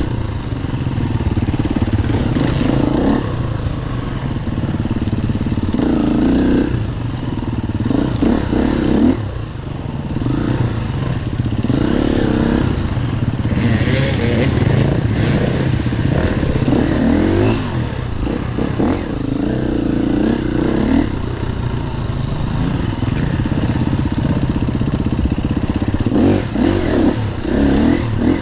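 Enduro dirt bike engine revving up and down again and again as it is ridden, the engine note climbing and dropping every second or two, with a brief hiss about halfway through.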